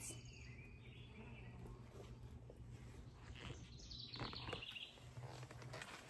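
Faint outdoor background with a steady low rumble and a bird calling briefly about four seconds in.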